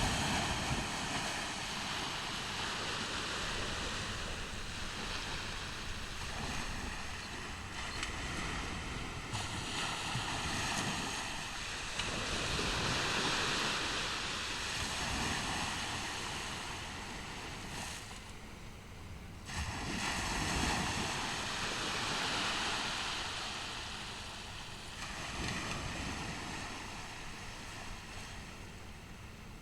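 Ocean surf breaking and washing up a beach: a steady rushing hiss that swells and falls back every several seconds, with a brief lull about two-thirds of the way through.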